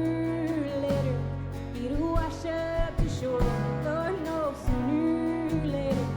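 Live band music: drums and bass under guitars, with a melody line that bends in pitch in phrases of about a second, in a country-tinged indie rock style.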